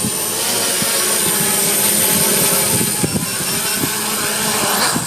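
Quadcopter motors and propellers whining steadily at a high pitch, swelling near the end.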